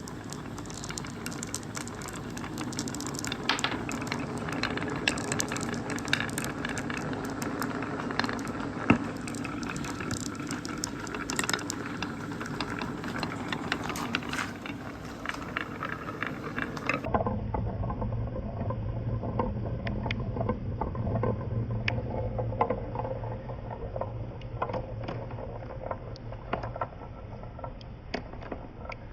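Many marbles rolling and clacking along a handmade marble run, a dense stream of clicks over a wash of running water. About two thirds of the way through, the sound abruptly turns duller, with a low hum underneath.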